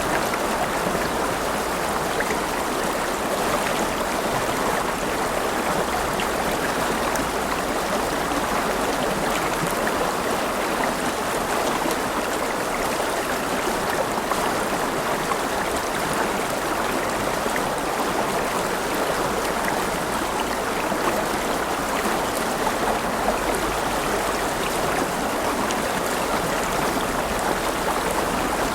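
River water flowing and babbling, a steady rush with small splashes and trickles throughout.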